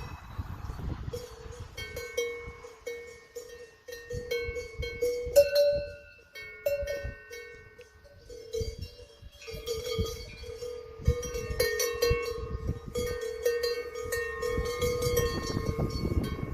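Several bells worn by grazing cattle clanking irregularly, each at its own pitch, with overlapping strikes.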